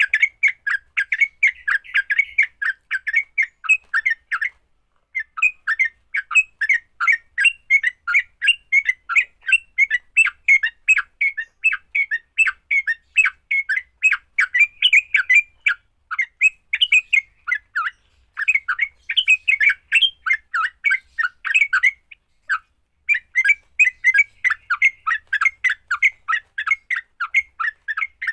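Yellow-vented bulbuls (trucukan) singing a fast, aggressive fighting song: an unbroken run of rapid chattering notes, several a second, that breaks off briefly twice.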